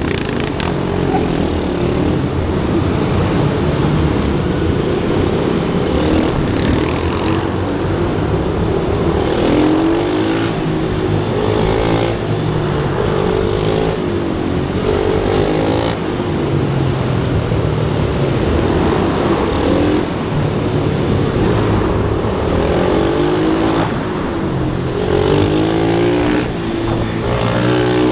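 Several small pit bike engines racing on a track. Their pitches repeatedly rise and fall as the riders accelerate, shift and brake, overlapping one another.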